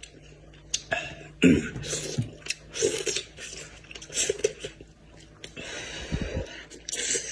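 Close-up eating sounds from someone chewing and picking at goat-head meat: irregular wet smacks and clicks with short noisy bursts, the loudest about one and a half seconds in.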